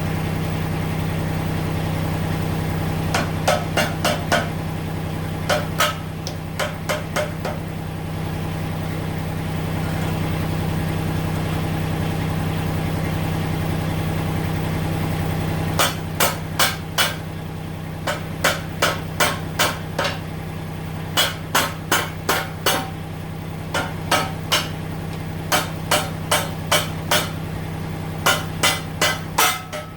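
Repeated plastic-hammer blows in quick runs of two to five strikes, with a pause of several seconds in the middle. Under them, the tractor's three-cylinder diesel idles steadily.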